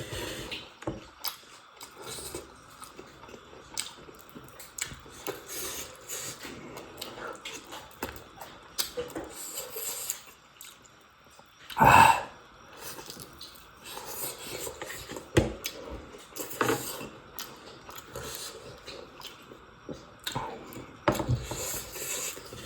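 People chewing and eating close to the microphone, with scattered small mouth noises and clinks of cutlery and dishes. About halfway through there is one loud, short sound, the loudest thing here.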